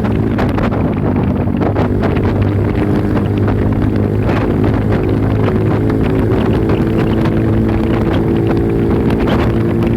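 Yamaha YBR motorcycle's single-cylinder four-stroke engine held at high, steady revs during a top-speed run, with wind rushing over the microphone.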